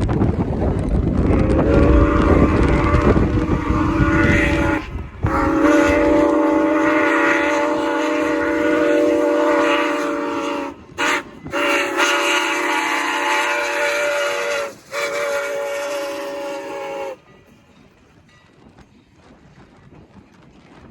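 A train's multi-note chime horn or whistle sounds a long series of blasts, long, long, short, long, the pattern of a grade-crossing signal, over the rumble of the passing train. It stops suddenly a few seconds before the end.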